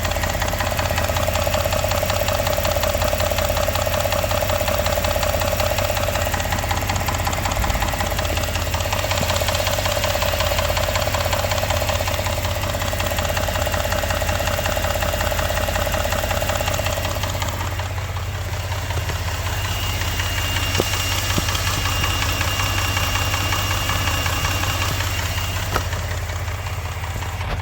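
Engine running steadily with a rapid, rhythmic knock. Its note changes about two-thirds of the way through.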